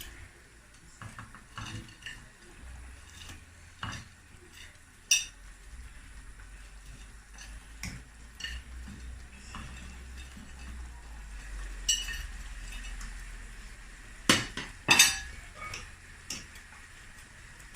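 A spoon knocking and scraping against a cooking pot while chicken pieces are stirred into the stew sauce, in scattered irregular clinks; the loudest are two sharp knocks close together about two-thirds of the way through.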